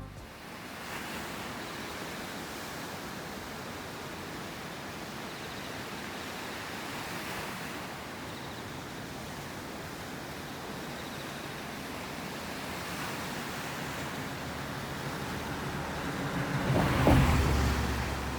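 Ocean surf washing steadily on a beach. About three-quarters of the way through, a louder rush with a low rumble swells up and eases off.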